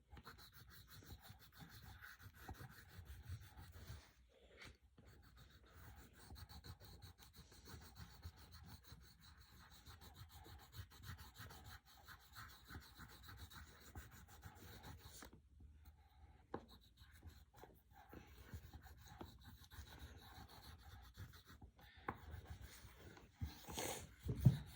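Faint scratching of colored pencils on paper as children colour in a drawing, in irregular strokes with a few short pauses.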